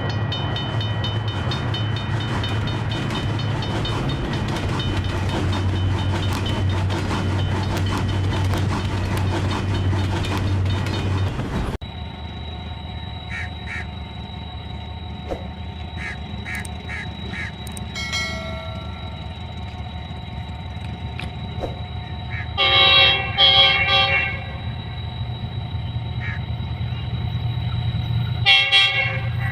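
Express train passing at speed, a loud rush of wheel and carriage noise with a low rumble and rapid clatter, which cuts off abruptly about twelve seconds in. After that the background is quieter with a steady whine and a few short toots, and a locomotive horn sounds loudly twice, a blast of about a second and a half a little past two-thirds of the way through and a shorter one near the end.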